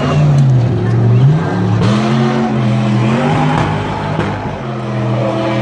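Off-road race truck engine, loud, its pitch falling in the first second, jumping up about two seconds in and holding, then dropping to a steady lower note near the end as the throttle is worked.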